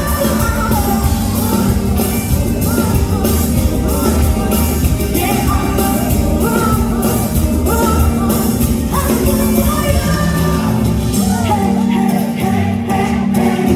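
A female singer singing a melodic vocal line over a live band accompaniment.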